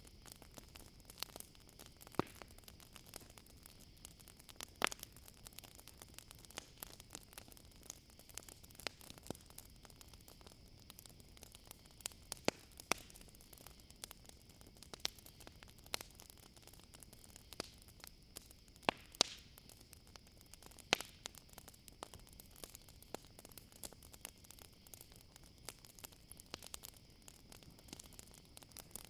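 Campfire crackling: irregular sharp pops and snaps over a faint hiss, with a steady high chirring of crickets behind.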